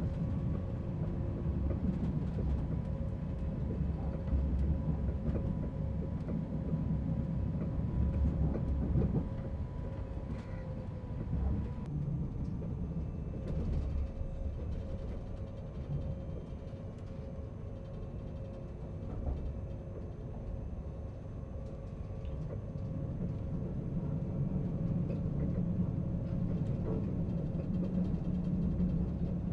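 Steady low rumble of a moving Astoro (ETR 610) high-speed train heard from inside the passenger car, with a constant hum over it. The rumble eases a little through the middle and builds again near the end.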